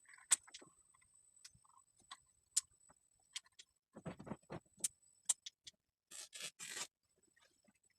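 Scattered light clicks and knocks, with three short scraping strokes one after another about six seconds in.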